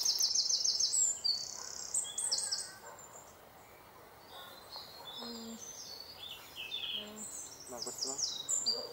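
Small songbirds singing: rapid runs of high, falling chirps, loud and dense for the first two seconds or so, then quieter scattered calls.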